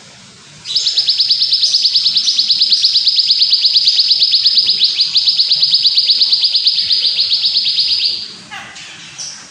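A songbird's long, rapid, high trill of about ten even notes a second, held for about seven seconds, with short high chirps just before it and near the end.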